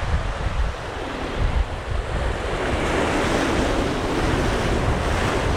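Sea rushing past a sailboat's hull under sail, with gusty wind buffeting the microphone; a louder wash of water swells up about halfway through.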